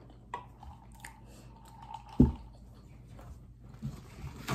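Close-miked chewing and small wet mouth clicks from a person eating rice with shrimp paste, with a single low thump a little over two seconds in.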